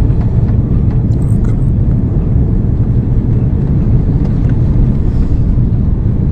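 Steady low rumble of engine and airflow noise inside a jet airliner's cabin during its descent to land, with a few faint ticks.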